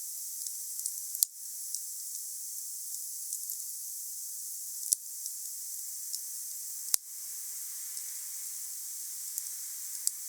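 Wood fire burning: a steady high hiss with scattered small crackles and three sharp pops, the loudest about seven seconds in.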